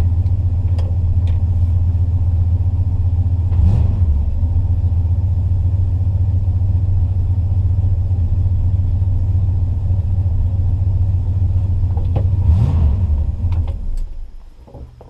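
1964 Chrysler's V8 idling steadily, running again after its wiring was repaired, with two brief rises about four seconds in and again near the end. It is then switched off and runs down just before the end.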